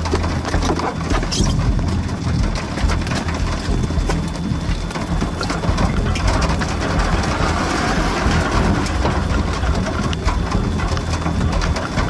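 Heavy thunderstorm rain and wind, a steady rushing noise with a deep rumble underneath and many small, sharp hits of drops throughout.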